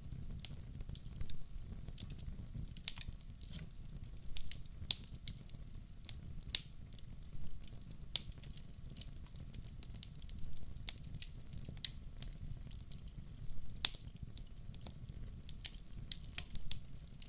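Wood fire crackling in a fireplace: irregular sharp pops and snaps over a steady low rumble of flames, with the loudest pops about three seconds in and near fourteen seconds.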